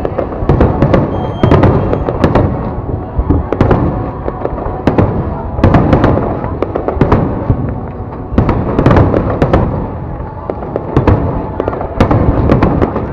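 Fireworks display going off in a dense, continuous barrage: loud bangs and crackles several times a second.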